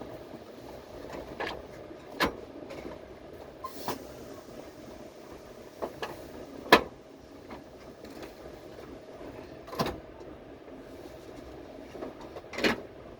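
Subway train running: a steady hum with sharp, irregular knocks every one to three seconds, the loudest about halfway through.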